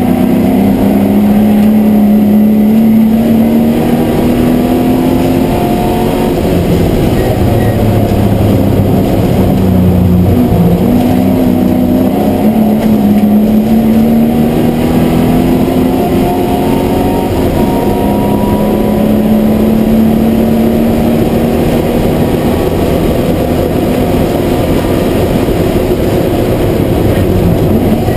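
MGB GT V8 race car's V8 engine at racing speed, heard from inside the cabin: the engine note climbs and falls back again and again as the driver works through the gears and corners, over loud road and wind noise.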